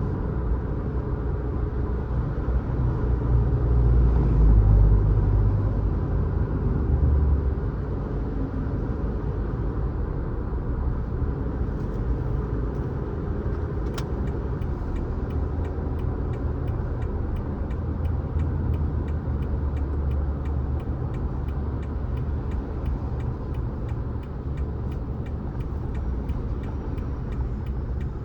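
Car driving on the road: a steady low rumble of engine and tyre noise that swells louder about three to seven seconds in, with a single click about halfway and faint regular ticking after it.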